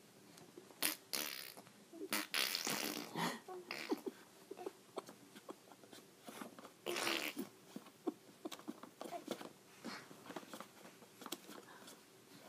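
A four-month-old baby blowing raspberries and making spluttering, wet mouth noises in short bursts, the longest about two seconds in and another around seven seconds, with small lip-smacking clicks between them.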